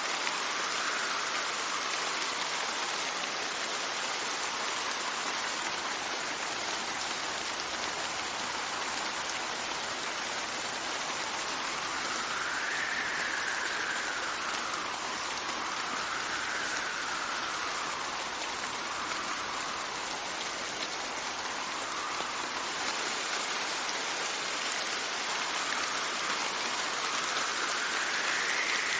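Steady rain with gusts of wind, the wind's whistle rising and falling in pitch several times over the rain's even hiss.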